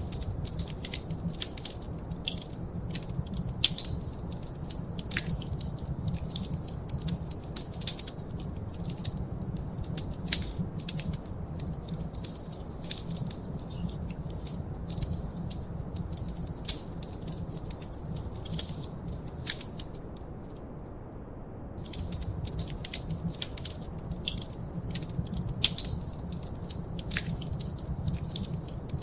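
A wood fire crackling in a fireplace: irregular sharp pops and snaps over a low, steady rumble. The crackles stop for about a second roughly twenty seconds in, then pick up again.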